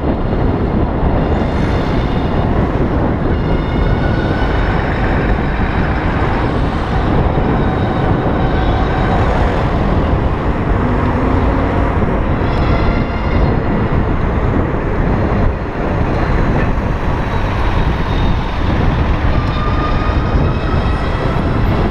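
Steady wind and road noise from riding an electric bicycle through traffic, with a faint higher whine coming and going a few times.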